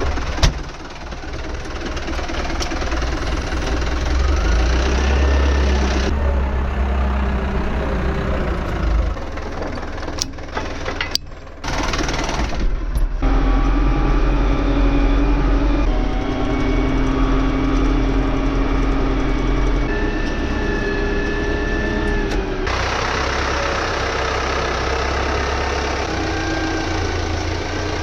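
A vehicle engine running steadily with a deep low rumble, heard in several cut segments with abrupt changes in tone between them.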